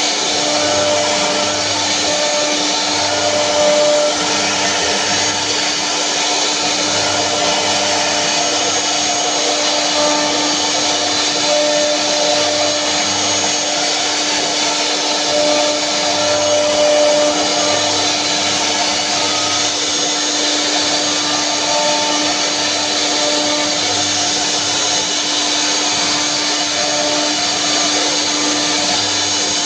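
Power woodworking machinery running steadily: a constant hum under a broad whirring hiss.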